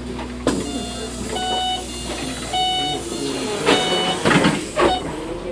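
City bus running, heard from inside the cabin: a steady low rumble with a few sharp knocks and rattles, and a short run of electronic tones at changing pitches, like a little tune, sounding through it.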